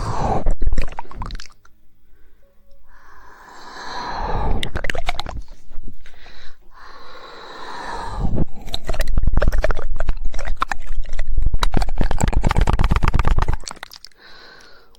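Close-miked ASMR mouth sounds: several wet, swelling mouth noises, then a fast run of rapid tongue clicks (the 'woodpecker' tongue click) for about five seconds before it stops near the end.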